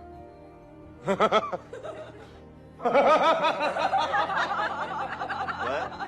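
Laughter: a short burst of laughs about a second in, then a longer, louder run of laughing from about three seconds in, over faint steady tones.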